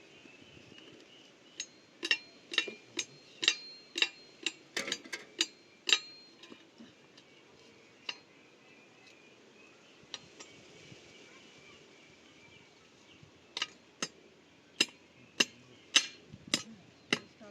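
Sharp metal-on-metal taps struck by hand with a tool, about two a second in two runs, each with a brief ring; a pause of several seconds comes between the runs. A faint steady high hum of insects lies underneath.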